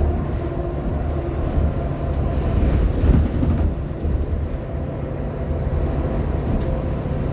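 Nova Bus LFSA HEV articulated hybrid bus under way, heard from on board: a steady low rumble from its Cummins ISL9 diesel and the road, with faint steady tones from the hybrid drive. The loudness swells briefly about three seconds in.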